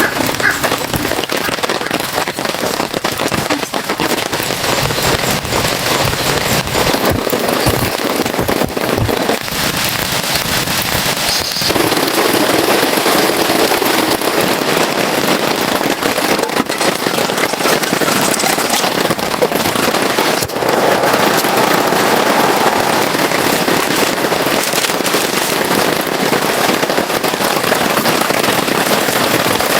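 Heavy rain pattering on a surface, a steady, dense crackle of drops. It changes character about twelve seconds in and again about twenty seconds in.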